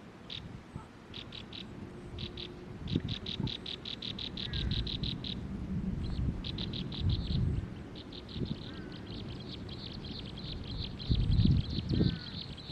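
Baby birds giving begging chirps: rapid trains of short high notes, about six or seven a second, first in short bursts and then as a near-continuous run from about eight seconds in. Low rustling and thumps run underneath.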